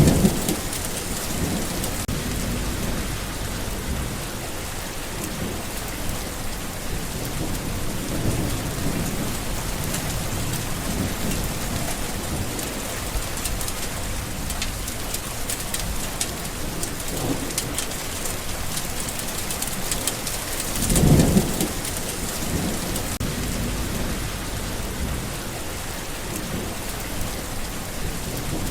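Steady heavy rain falling, with low rolls of thunder. The loudest rumble swells up about two-thirds of the way through, after a strong one right at the start and fainter ones in between.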